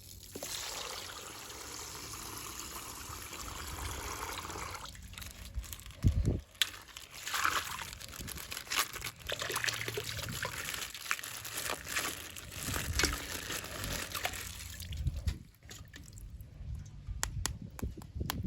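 Coloured water pouring steadily out of a punctured plastic ice-pack bag for about five seconds, then a thump and irregular crinkling, dripping and splashing as the wet plastic bag is handled and torn open.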